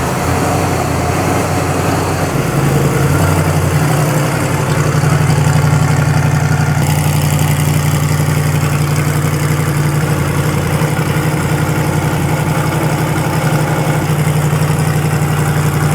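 A motor vehicle's engine idling steadily just after being started; its idle note shifts and settles about two and a half seconds in.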